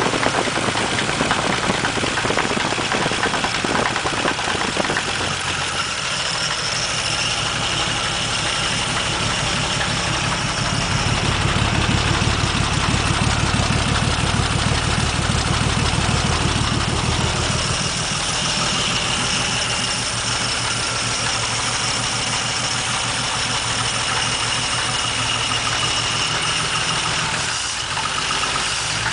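1947 Dodge flathead six running at idle, picking up a little speed for several seconds midway and then settling back. Just above idle it has a knock that the owner takes for a rod knock.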